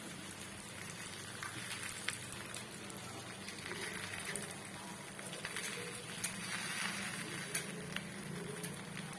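Chapati cooking on a hot dosa griddle: a faint, steady sizzle with a few small sharp clicks.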